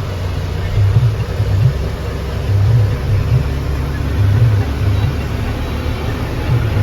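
Diesel engine of a JCB 3DX Xtra backhoe loader running under work load, a low throb that swells and eases every second or so.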